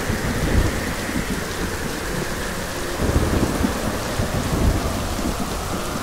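Steady heavy rain with low rumbles of thunder that swell three times.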